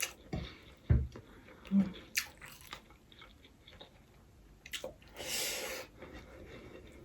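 A person chewing a mouthful of fried rice with soft mouth clicks and smacks. There are two low thumps in the first second, a short hum near the two-second mark, and a brief breathy rush about five seconds in.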